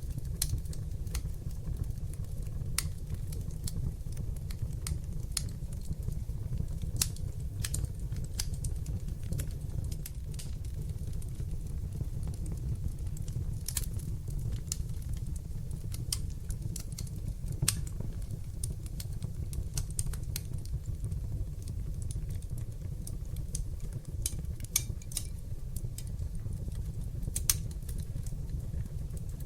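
Wood fire burning in a hearth, crackling and popping at irregular intervals over a steady low rumble of flames.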